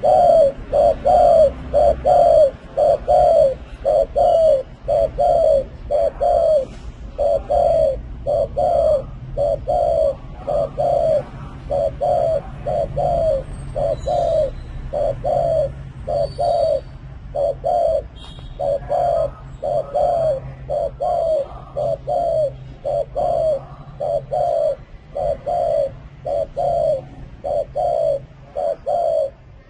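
Spotted dove giving its rapid 'gù' coo: a long, steady series of short, low coos, about one and a half a second.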